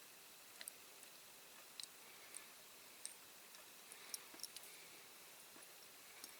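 Near silence broken by about ten faint, irregular clicks and taps: small diecast model parts and tools being handled on a workbench.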